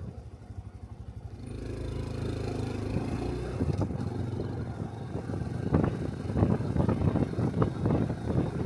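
Honda 125 cc single-cylinder Cub motorcycle engine, running low and quiet at first, then getting louder about a second and a half in as the bike pulls away and picks up speed; the sound turns rougher and louder from about six seconds in.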